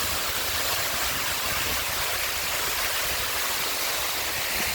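Steady rushing of water pouring down a man-made waterfall close by.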